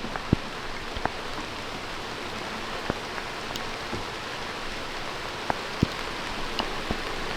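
Steady rain falling, with single drops ticking sharply close by every second or so.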